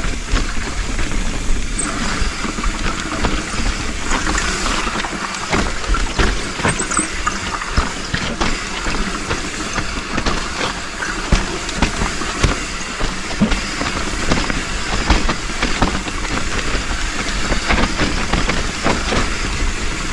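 Trek Slash full-suspension mountain bike descending a wet, rough dirt trail: constant rumble of tyres and wind with a steady stream of rattles and knocks from the chain and frame over roots and rocks.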